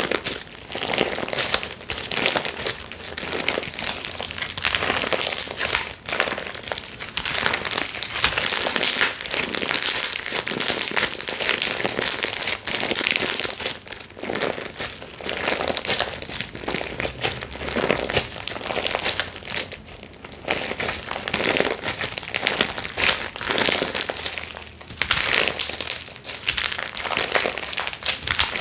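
Slime being squeezed, stretched and pressed by hand, making a dense run of crackling and popping, with a few brief pauses.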